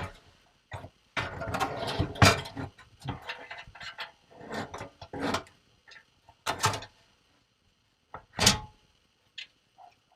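Clunks, rattles and scraping of a steel under-seat storage box and its jack clip being handled and worked into place on a pickup's cab floor, a busy run of knocks in the first half, then two separate sharper clunks later on.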